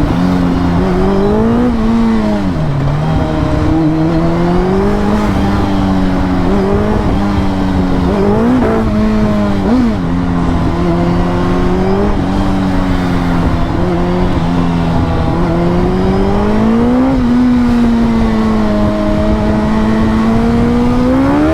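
Suzuki Hayabusa Gen 3's 1340 cc inline-four running through an aftermarket full exhaust with Yoshimura end cans while being ridden. The engine note mostly holds steady at cruise, with short rises and dips under throttle about 2, 9 and 17 seconds in, and climbs sharply right at the end.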